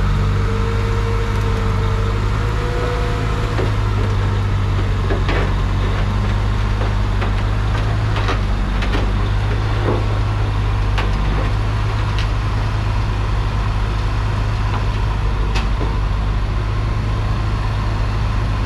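Truck engine idling steadily, with a few light clicks and knocks over it.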